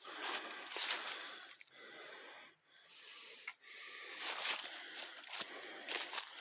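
A person breathing heavily close to the microphone, a run of long, noisy breaths one after another with short pauses between them.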